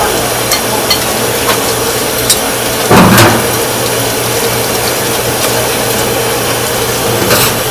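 Steady machine hum with scattered light clicks and one louder low thud about three seconds in.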